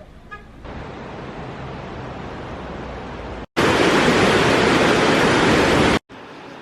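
Steady rushing water, heard in edited pieces: a moderate rush that starts under a second in, then a much louder full rush from about three and a half seconds in that cuts off abruptly near six seconds.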